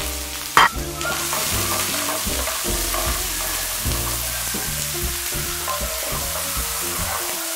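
Diced onions and carrots sizzling in a frying pan while being sautéed and stirred with a wooden spoon. The steady hiss strengthens after about a second, and there is one sharp knock about half a second in.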